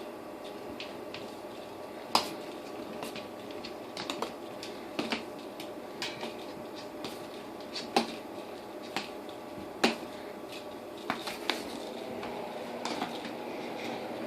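Irregular taps and thumps of cats at play with a teaser wand, their paws and the toy striking the floor, loudest about two seconds in and again near the ten-second mark, over a steady faint hum.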